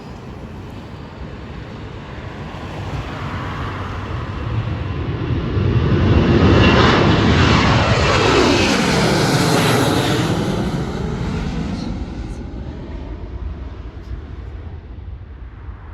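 Boeing 737-800's CFM56 jet engines at takeoff power as the airliner passes: the roar swells to a peak with a falling pitch as it goes by, then fades away.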